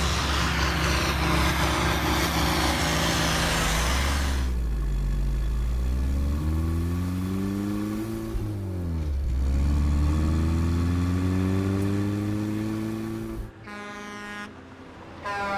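An engine running under a loud hiss, then revving up twice, its pitch rising, falling away sharply and rising again as if shifting gear, before it cuts off near the end. A short, different pitched sound follows.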